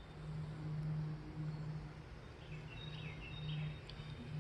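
A few short bird chirps about two to three seconds in, over a steady low hum.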